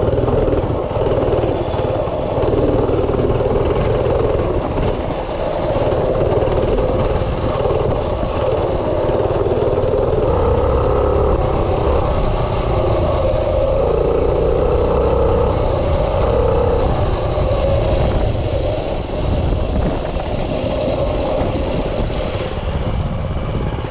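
Minibike engine running steadily as it rides, its note shifting up and down with the throttle.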